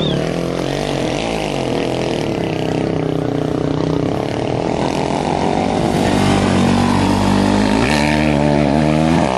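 Rally motorcycle engine revving up and down, its pitch rising and falling; the engine note changes about eight seconds in.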